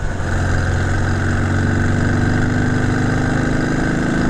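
Porsche 356's air-cooled flat-four engine pulling under load, its note rising slowly as the revs climb. A brief dip and change of pitch right at the start, as at a gear change.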